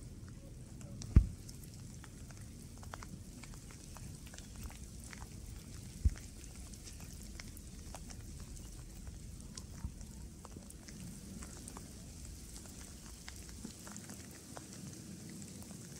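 Rain falling: many scattered raindrops ticking close by over a low rumble. Two loud low thumps cut through, about a second in and again about six seconds in.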